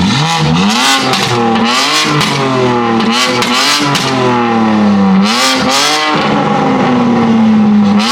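Car engine revved repeatedly through its exhaust, the pitch climbing and falling in quick blips, then held up and slowly dropping near the end.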